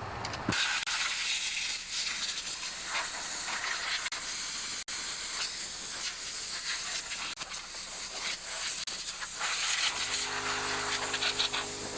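Compressed-air blow gun hissing in long blasts as it blows grass out of a lawn tractor mower deck's belt housing. A steady low hum starts near the end.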